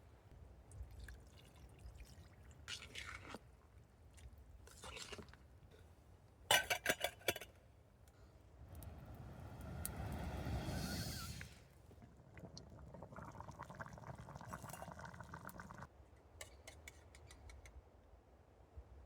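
Cooking handling sounds: scattered clicks, then a quick run of about six sharp knocks like utensils or glassware striking. Liquid is then poured, rising to a rushing swell, followed by a steadier stretch that stops abruptly.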